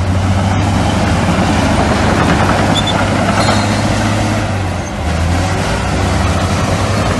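Heavy diesel earthmoving machinery running, a steady low engine drone over broad mechanical noise, dipping briefly just before five seconds in.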